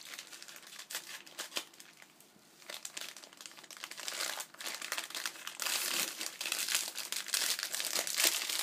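Crinkling and rustling of packaging being torn open and unwrapped by hand, getting louder from about halfway through.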